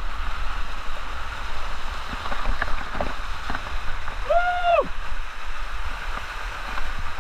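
Steady rush of falling and flowing river water, with a low rumble underneath. About four seconds in, a single short high call rises and then falls.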